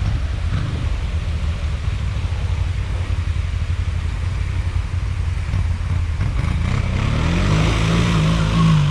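Can-Am Outlander 1000 XMR ATV's V-twin engine running at low revs, then revving up about six seconds in and holding a higher, louder steady pitch.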